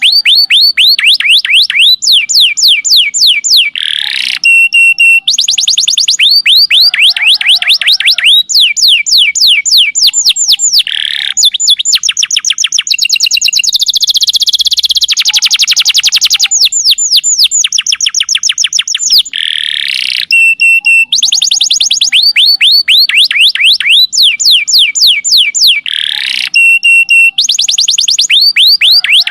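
Canary singing a continuous loud, high-pitched song. It is built of fast trills of quick, evenly repeated downward-sweeping notes and held rolling tones, with the same phrases coming back again and again.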